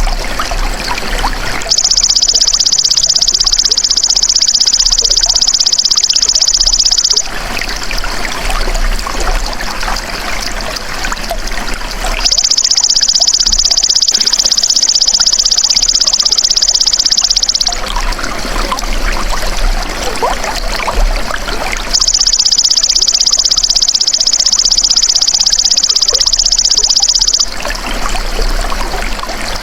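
Belalang emas (golden grasshopper) insect calling in three long, high, rapid buzzing trills of about five seconds each, about ten seconds apart. Under it runs a steady trickle of running water.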